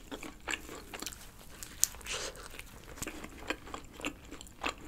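Close-miked chewing of a bite of thin-crust pepperoni pizza: a string of small crisp crunches, with a sharper crunch a little under two seconds in.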